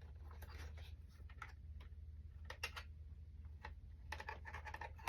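Faint, scattered clicks and short rustles of hands handling a cardboard box and its packaging over a low steady hum.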